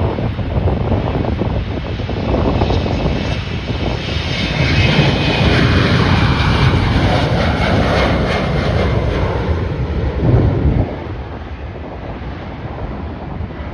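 Passenger airliner's engines going past at close range: the sound swells to its loudest around the middle, with a high whine on top, then falls away sharply near the end. Wind rumbles on the microphone throughout.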